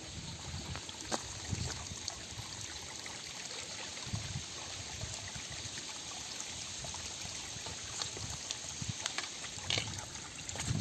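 River water trickling and flowing over rocks, a steady rush, with scattered light clicks and low thumps from walking on stones.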